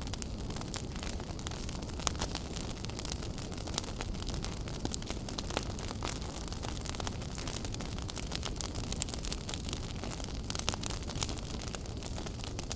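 Wood fire burning in a fireplace, crackling: a steady low rumble with irregular sharp pops and snaps.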